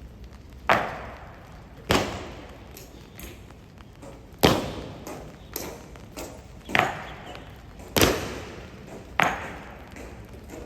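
Sharp, ringing clacks about every second and a quarter, with fainter knocks in between: honor guards' boots and rifles striking the hard pavement in slow, measured ceremonial drill.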